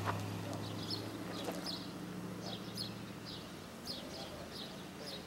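A small bird calling over and over: short, high chirps, mostly in pairs, about once a second. Under the chirps is a low steady hum that fades out about three and a half seconds in.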